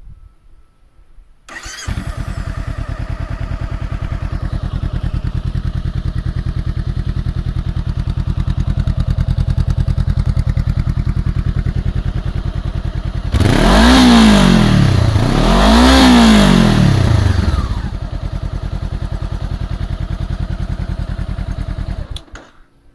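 Honda CBR500R's parallel-twin engine through a Musarri slip-on exhaust with its silencer baffle fitted: it starts about a second and a half in and idles steadily, is revved twice around the middle, settles back to idle, then is shut off near the end.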